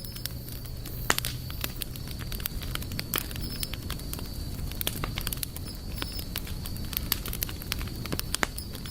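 Wood campfire crackling, with irregular sharp snaps and pops over a steady low rumble of the burning fire.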